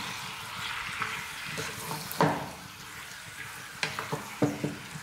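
Raw chicken pieces sizzling in a pan of fried onion and tomato masala as they are stirred with a spatula, with a few sharp knocks of the spatula against the nonstick pan in the second half.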